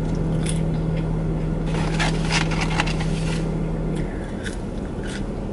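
Close-up chewing and mouth sounds of someone eating French fries, with a cluster of crackly chewing noises in the middle. A steady low hum from the car runs underneath and drops out about four seconds in.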